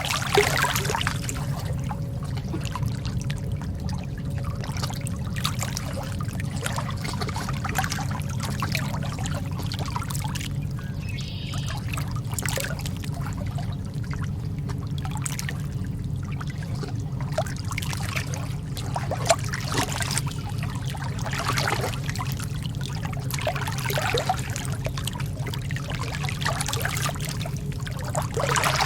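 Calm lake water lapping: a continuous wash of small irregular splashes and trickles over a steady low rumble.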